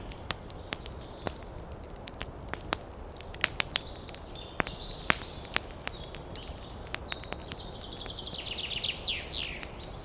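Campfire crackling with frequent sharp pops, while small birds chirp; near the end a bird's call quickens into a fast run of falling notes.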